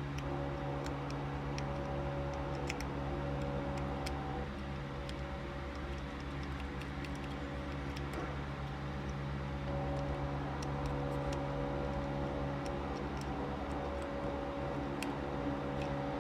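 Small scattered clicks and taps of electrical connectors and parts being handled while corroded contacts are cleaned, over a steady mechanical hum.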